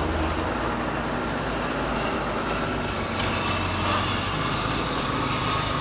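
WWII Dodge military truck's engine running steadily as the truck drives, heard from on board.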